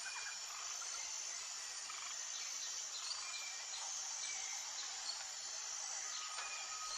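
Outdoor nature ambience: a steady high insect drone with scattered short bird chirps, and a faint steady whistle-like tone entering near the end.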